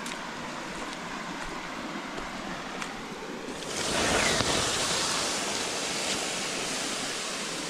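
Water dumped onto the hot coals of a campfire to put it out: a sudden loud hiss of steam a few seconds in that slowly dies away, over a steady background of running water.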